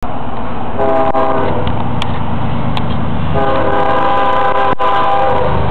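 Train rumbling past loudly while its horn sounds twice, a short blast and then a longer one, each a chord of several tones.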